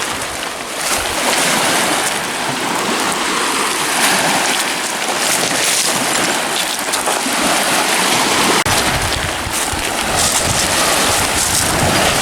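Lake waves washing against the shoreline, a steady rushing noise. Wind buffets the microphone, with a low rumble that comes back about eight and a half seconds in.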